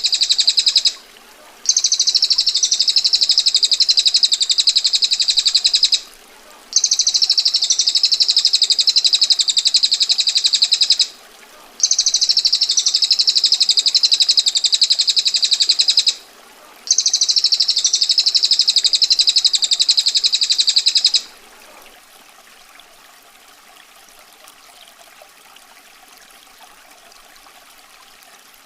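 Female prinia (prenjak betina) giving its harsh, rapid, tightly packed trill in long rolls of about four seconds each, broken by short pauses. The trilling stops about three-quarters of the way through, leaving a faint steady water sound.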